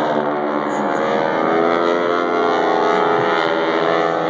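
Propeller aircraft engine droning steadily as the plane flies past, its tone slowly shifting.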